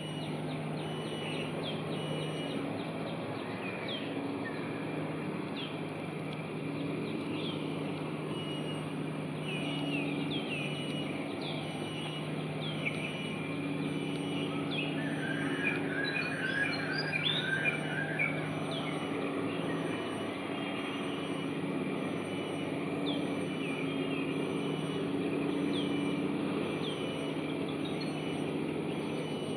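Adult Malaysian pied fantail calling: short, sharp notes repeated every second or so, with a quick cluster of chirps about halfway through.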